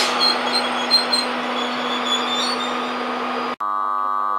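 East Coast InterCity 225 train's Mark 4 coaches rolling past close by: steady rail noise with a constant low hum. About three and a half seconds in it cuts off abruptly into a steady buzzing hum.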